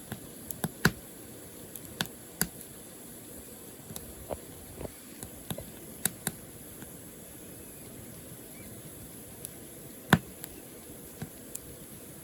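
Burning firewood crackling: irregular sharp pops and snaps over a steady low hiss, with the loudest pop about ten seconds in.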